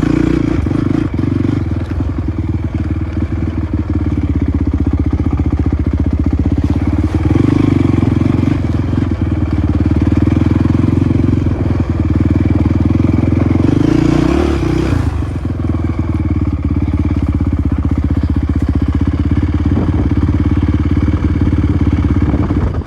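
Dirt bike engine running hard and steadily, close up, with a brief rise and fall in revs a little past halfway.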